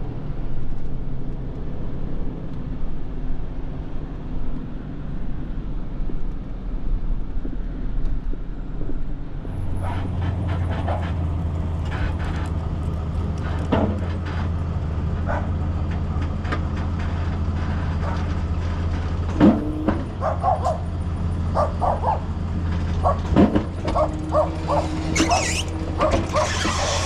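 Tow truck engine running with a steady low hum, which grows stronger about ten seconds in, and a dog barking repeatedly over it from then on, the barks coming thicker near the end.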